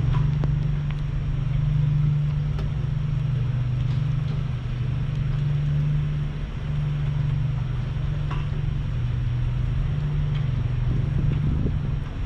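Steady low mechanical hum, like an engine or machine running nearby, with wind noise on the microphone and a few faint clicks.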